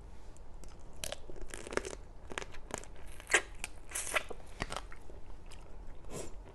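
Close-miked eating of a spicy Thai seafood salad: irregular crunchy bites and chewing, with sharp crackling crunches, the loudest a little past three seconds in.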